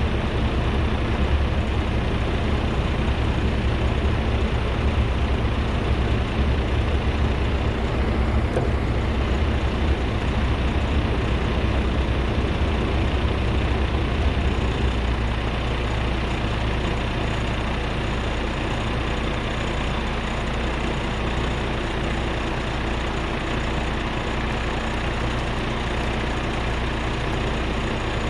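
Heavy diesel truck engine running steadily under load during a winch recovery pull, a little louder in the first half and easing slightly about halfway through.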